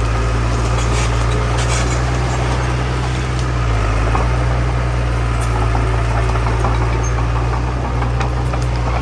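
Heavy diesel engine of earthmoving machinery running steadily, with a few light clicks over the engine noise.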